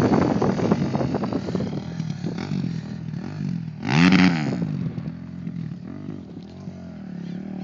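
Motocross bikes running on a dirt track: a close engine running hard fades away over the first couple of seconds, then about four seconds in one bike revs up and back down loudly. Fainter revs of other bikes follow.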